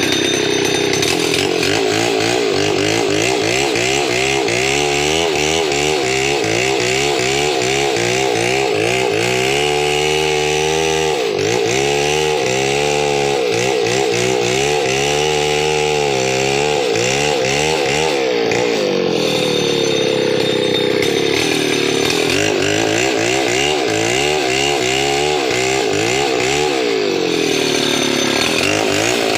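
Chainsaw engine running loud and continuously, its pitch wavering and dipping several times before picking up again.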